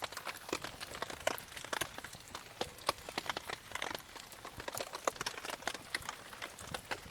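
Wood campfire crackling, with a dense run of irregular small snaps and pops.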